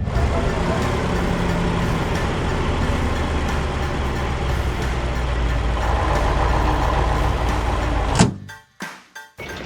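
Truck engine running steadily with a heavy low rumble, a cartoon sound effect for the cement mixer truck being called in. It cuts off sharply about eight seconds in.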